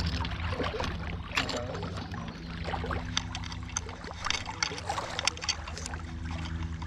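Water splashing and sloshing in a shallow creek, with scattered knocks and rustles over a steady low rumble.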